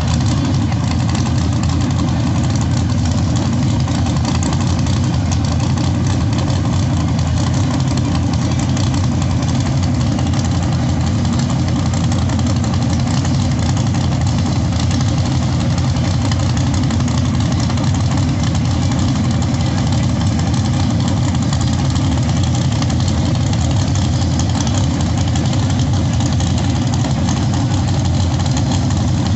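Drag-race vehicle engines idling: a loud, steady low rumble with no revving.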